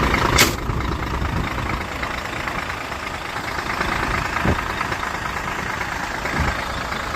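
Scania truck's diesel engine idling steadily, with a sharp click about half a second in and two soft knocks later.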